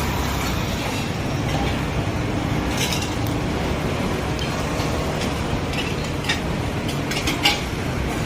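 Steady traffic hum with a few light clinks, the loudest near the end.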